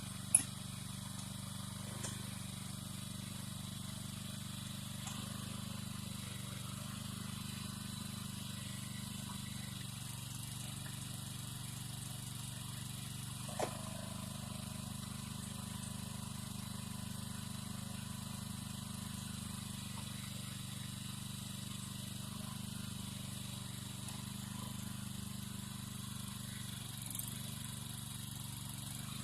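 A small engine running steadily at idle, with a sharp click just after the start and a lighter knock about halfway through.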